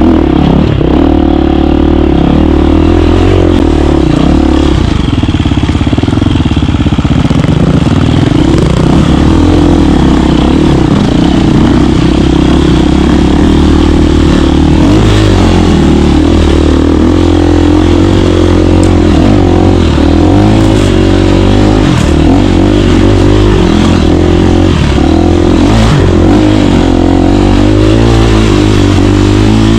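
KTM 350 dirt bike's single-cylinder four-stroke engine running loudly, its pitch rising and falling a little with the throttle, with a few short knocks along the way.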